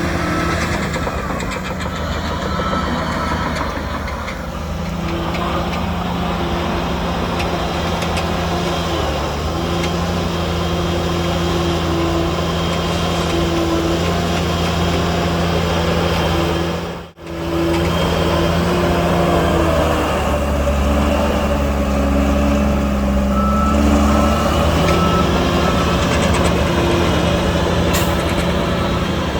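Heavy diesel engines of earth-moving machinery running steadily, the engine note shifting as load changes, with a reversing alarm beeping near the start and again near the end. The sound cuts out for a moment a little past halfway.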